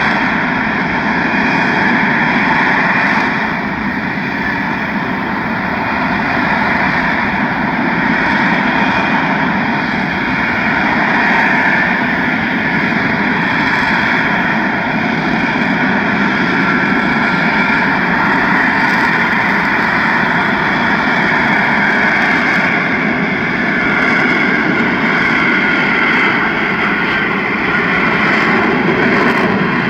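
US Marine Corps F-35B's F135 jet engine running at high power, a loud, steady jet noise that swells and eases slightly but never stops.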